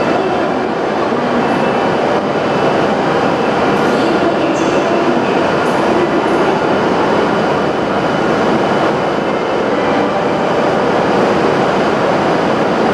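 Hokuriku Shinkansen train standing at the platform, giving off a steady, even rushing noise from its onboard equipment. The station's departure melody chime plays faintly over it.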